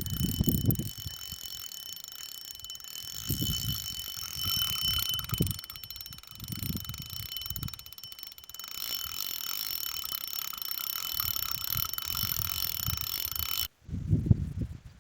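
Fishing reel being wound, a fast steady mechanical whirring and ratcheting, with irregular low handling thumps; it cuts off abruptly near the end.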